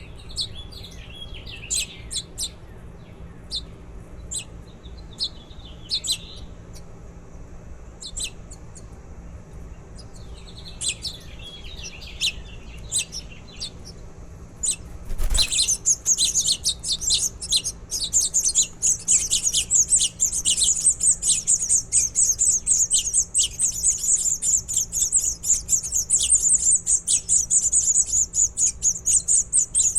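Baby birds chirping: scattered short, high cheeps at first, then a sudden knock about halfway through, after which the chirping becomes a dense, continuous, much louder high chorus.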